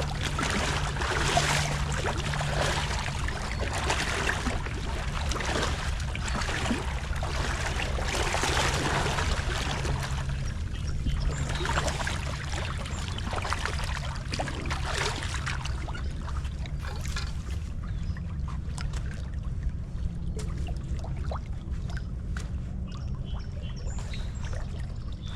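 Creek water rushing and splashing through a breached beaver dam, louder at first and easing after about ten seconds.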